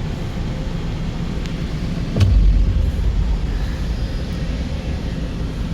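Steady low rumble heard from inside a car's cabin in an automatic car wash, with one sharp knock about two seconds in followed by a second of heavier rumble.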